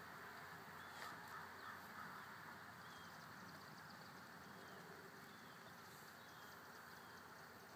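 Faint outdoor ambience with a small bird calling in short, repeated chirps.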